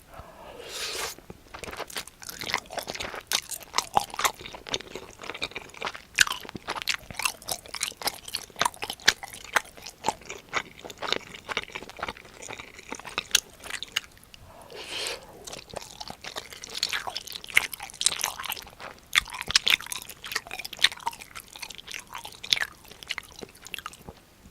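Close-miked chewing of a crispy breaded pork cutlet: a bite, then rapid crisp crunches, in two runs with a short lull about midway.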